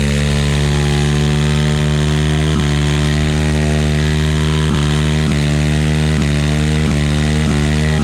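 Vehicle engine running steadily at a fast idle, settling in just after a rev falls away, with brief regular dips in its note that come more often toward the end.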